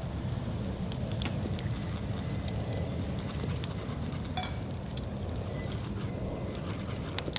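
Wood fire in a fire pit crackling, with scattered sharp pops over a steady low rumble.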